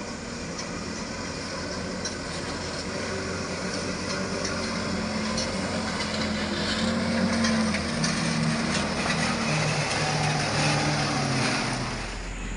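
Palm-oil truck engine running under load as the truck is driven over a rough, potholed road. It builds gradually, and its note shifts up and down in steps during the second half before easing off near the end.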